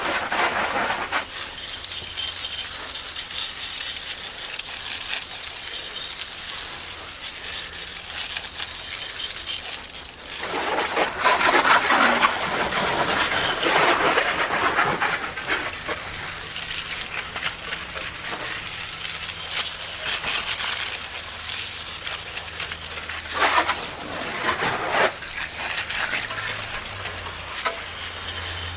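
Water spraying in a steady hiss, surging louder in two longer stretches.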